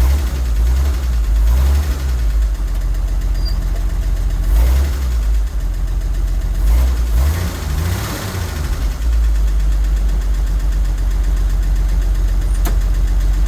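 1963 Jeep Gladiator engine running unevenly, surging several times with a rise and fall in revs as the gas pedal is pumped, then settling into a steady idle about nine seconds in. It is a hard-starting engine that struggles to stay running.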